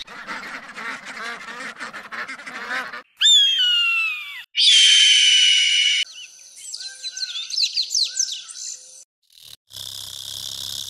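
A montage of wild bird calls cut abruptly one after another. First comes about three seconds of rapid, many-voiced honking chatter. Then a few loud falling whistles, a loud shrill call held for over a second, and scattered chirps. A steady high buzz begins near the end.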